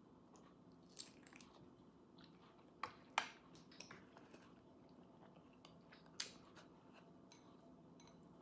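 Quiet close-up eating sounds: mouth smacks and chewing of food, with a few sharp clicks about a second in, around three seconds and near six seconds, over a faint steady hum.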